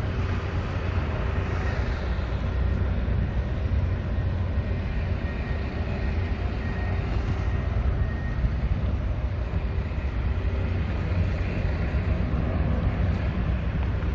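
Steady low rumble of road traffic and urban background noise, with no distinct single event.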